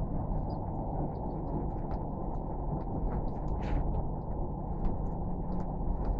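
Steady low rumbling noise with faint scattered clicks and ticks over it.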